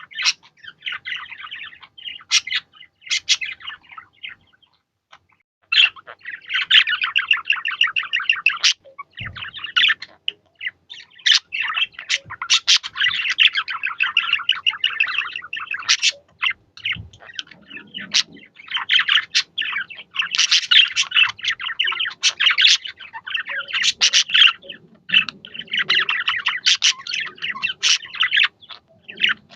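Budgies chattering and warbling in rapid, dense runs of chirps. There is a short pause a few seconds in, and the chatter then goes on almost without a break.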